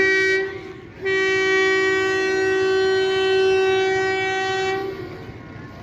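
Diesel locomotive air horn sounding a two-note chord: one short blast, then after a brief gap one long steady blast of about four seconds.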